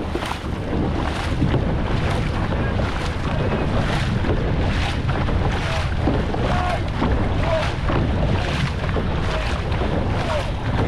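Dragon boat paddles striking and pulling through the water in a steady stroke rhythm, about two strokes a second, under heavy wind rumble on the microphone.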